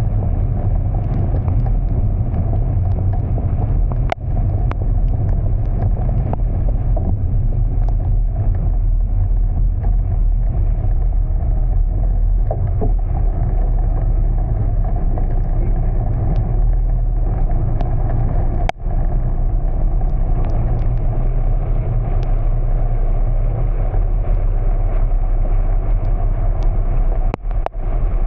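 Steady low rumble of a car driving, which briefly cuts out three or four times.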